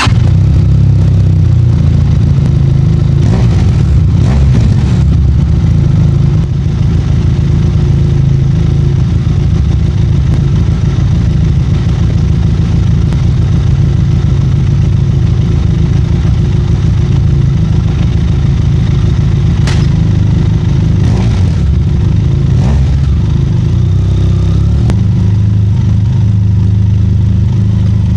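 Motorcycle engine running steadily just after being started, with a few brief changes in revs.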